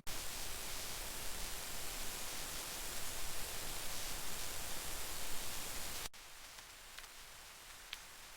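Kitchen tap running: a steady hiss of water over dishes being rinsed, cutting off abruptly about six seconds in, after which only a few faint ticks remain.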